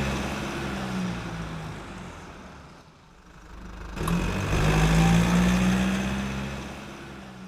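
Car engine running steadily, heard twice: it fades away over the first three seconds, then comes back abruptly with a click about four seconds in, swells and fades out again.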